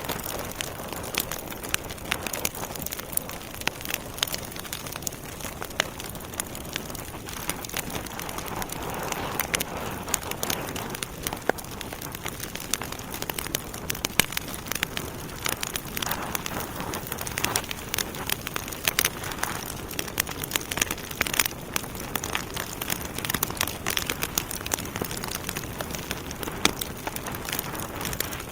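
Wood fire in a fireplace, logs burning with a steady hiss and frequent irregular sharp crackles and pops.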